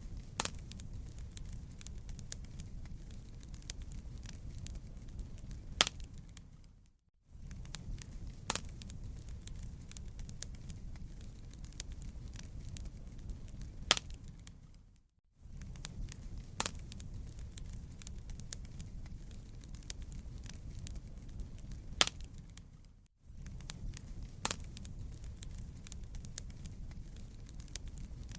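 Wood fire crackling in a fireplace: a steady low rumble with frequent sharp pops and snaps. The sound drops out briefly about every eight seconds.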